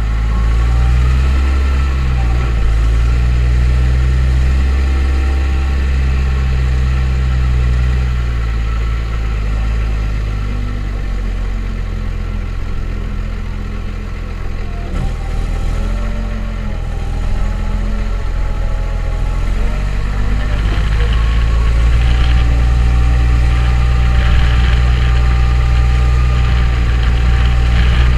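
New Holland T7030 tractor's six-cylinder diesel engine running steadily, its pitch shifting a little now and then. It grows louder and brighter about two-thirds of the way through.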